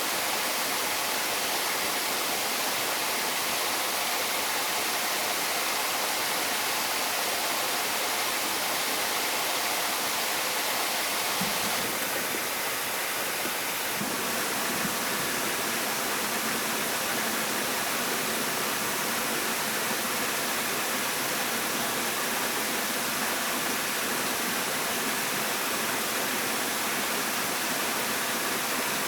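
Steady rushing of flowing water, with a slight change in tone about twelve seconds in.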